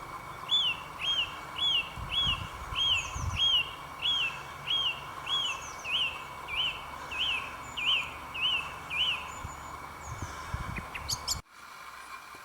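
A songbird singing a long run of identical clear whistled notes, each rising and falling, a little under two a second, about sixteen in all, stopping about nine seconds in. The sound cuts off abruptly near the end.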